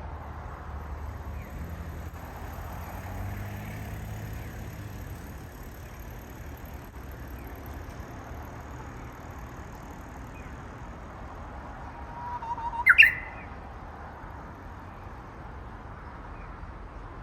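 Japanese bush warbler (uguisu) giving an odd, clipped song: one loud call about three-quarters of the way through, a brief held note that jumps into a sharp rising whistle, with a few faint short chirps scattered around it. The uploader suspects an immature bird still practising its song. A low rumble sits underneath in the first few seconds.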